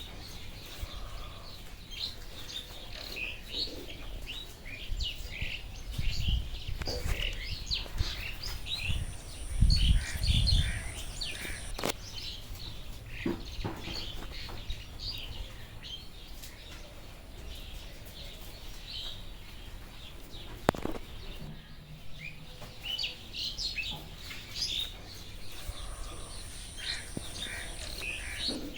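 Many rainforest birds chirping and calling over one another in quick short notes. A high, steady tone sits above them twice, and a low rumble swells about ten seconds in.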